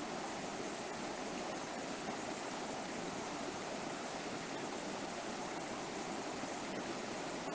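River water flowing over rocks: a steady, even rushing without any distinct events.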